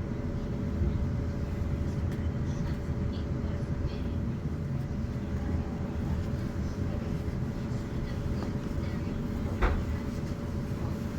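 Class 450 electric multiple unit running, heard from inside: a steady rumble of wheels on rails with a constant hum, and a single sharp knock about nine and a half seconds in.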